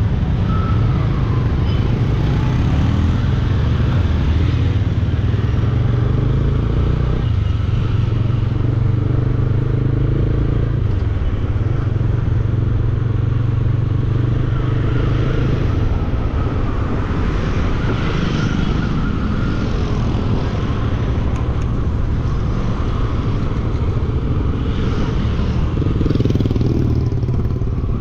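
Bajaj Dominar 400 single-cylinder motorcycle engine running while riding, its low note shifting in pitch a few times as the throttle changes, with road and wind noise.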